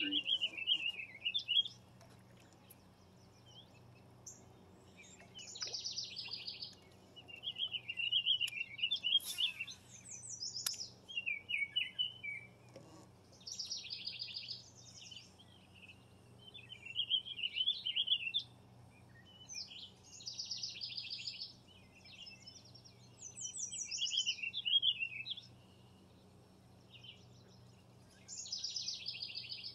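Songbird singing repeated short phrases every few seconds, a fast buzzy trill alternating with a quick wavering twitter, over a steady faint low hum.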